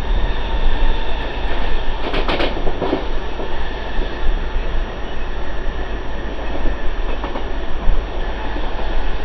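Mumbai suburban local train (electric multiple unit) running fast, heard from its open doorway: a steady rumble of wheels on rails with wind buffeting the microphone, and a brief clatter of sharp metallic knocks about two to three seconds in.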